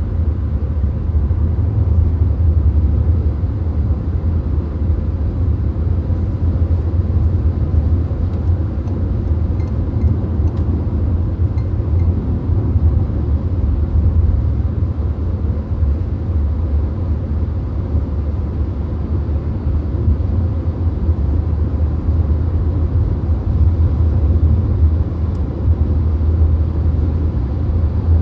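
Steady low road rumble and tyre noise inside a VW Golf's cabin at motorway speed, with a few faint ticks around ten seconds in.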